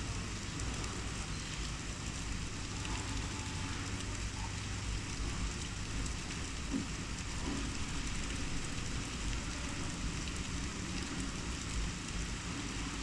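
Rain falling steadily in an even downpour.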